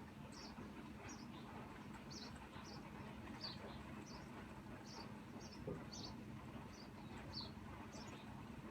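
Soft steady hiss of light rain, with short high-pitched chirps repeating irregularly, roughly two a second, from small creatures such as insects or birds.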